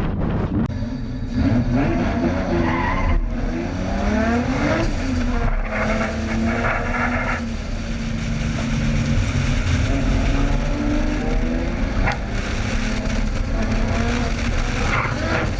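Drift car engine revving hard, its pitch climbing and dropping with gear changes and throttle, over the tyres squealing as the car slides.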